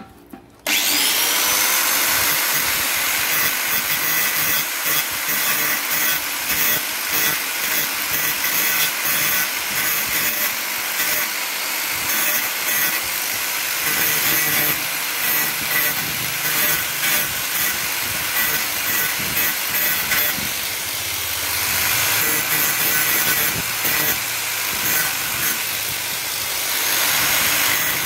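Small electric rotary grinder spinning up about a second in, then running steadily while grinding down the tab that presses an air fryer's power switch, shaping it into an arc so it can push the switch down.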